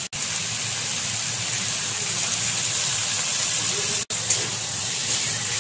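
Potatoes and green peas frying in mustard oil in a kadai: a steady sizzling hiss, cut off briefly about four seconds in.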